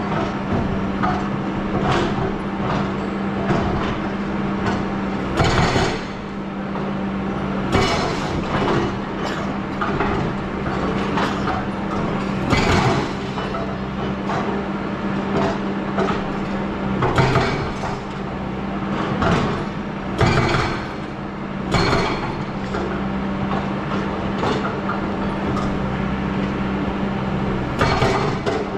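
Hydraulic excavator's diesel engine running steadily under load, with a dozen or so sharp clanks and scrapes from the machine at work.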